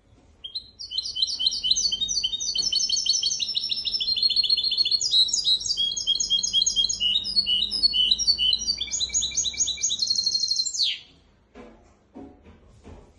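Hybrid (mule) finch singing one long unbroken song of fast, high trills that change from phrase to phrase. The song stops abruptly about eleven seconds in, followed by a few faint clicks.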